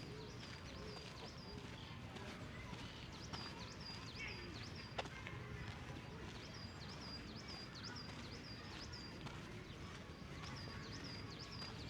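A small songbird singing a high chirping note over and over, in runs of several quick notes with short pauses between. Behind it is a steady outdoor murmur, with a single sharp click about five seconds in.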